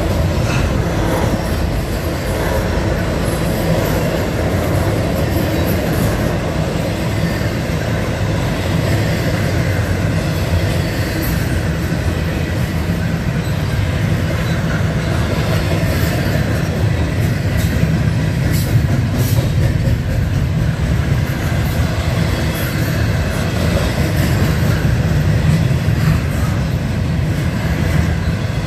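Double-stack intermodal freight train's well cars rolling past close by: a steady, continuous rumble of steel wheels on the rails.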